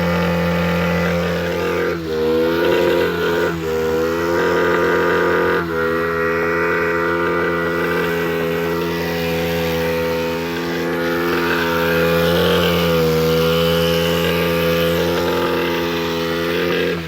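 Suzuki GN125 motorcycle's single-cylinder four-stroke engine running at steady revs. Its note dips and bends briefly about two, three and a half and six seconds in, then settles again.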